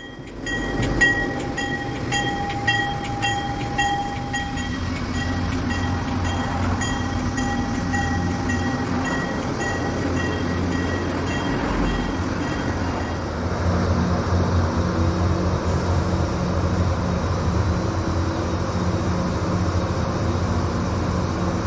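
MARC commuter train rolling slowly by. A grade-crossing bell rings with regular strikes for the first half and then stops, and a steady low engine drone grows stronger in the second half.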